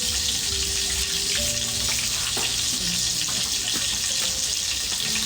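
Food sizzling in a hot pan, a steady hiss with occasional faint pops.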